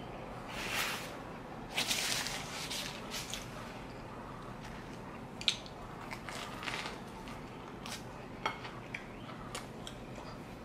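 Close-miked eating: wet chewing of spaghetti with meat sauce, then bites into and chewing of toasted garlic bread, in irregular bursts with a few sharp clicks.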